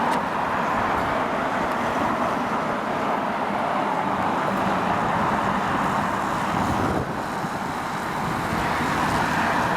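Steady rushing noise of riding a bicycle along a road with traffic, a mix of wind on the microphone and passing road traffic, dipping slightly about seven seconds in.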